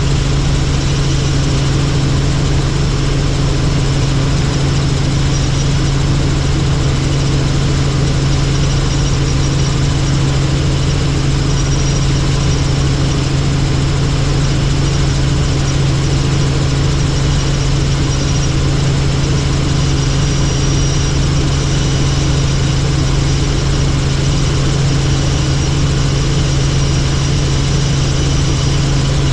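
Helicopter in flight: steady engine and rotor noise, a strong low hum under a dense hiss, holding level without change.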